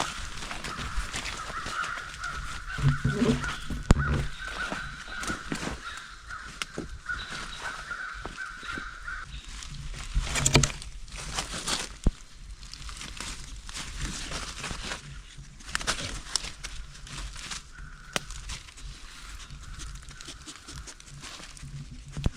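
Outdoor woodland sound: scattered clicks and crackles, a steady high pulsing trill through the first half and again near the end, and a short low-pitched call about three seconds in.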